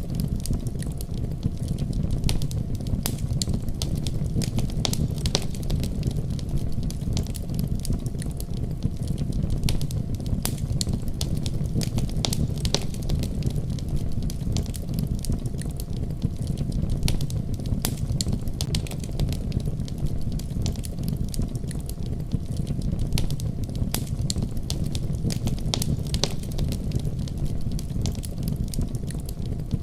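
Wood fire crackling, with scattered sharp pops, over a continuous deep rumble of a heavy snowstorm.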